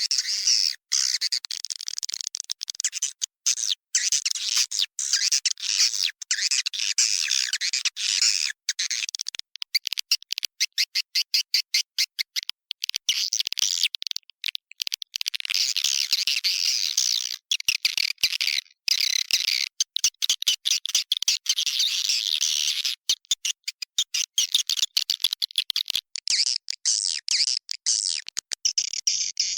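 Swiftlet calling sound: a dense, high-pitched twittering and chirping of many swiftlets, recorded in a swiftlet house the birds occupy and used as a lure call to draw swiftlets in. The chirping is broken by frequent abrupt cuts to silence and turns into a more even, repeating pattern near the end.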